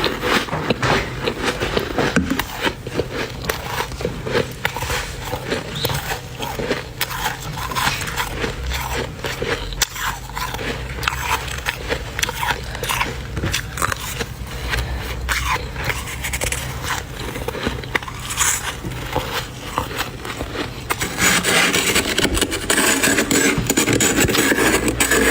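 Close-up crunching and crackling as mouthfuls of dry, flaky freezer frost are bitten and chewed, in many short crunches. About 21 seconds in, a denser, continuous rasping scrape begins, as a spoon scrapes frost off the freezer.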